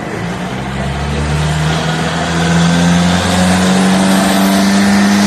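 Cummins-powered John Deere pulling tractor's diesel engine building revs, its note climbing slowly and getting louder.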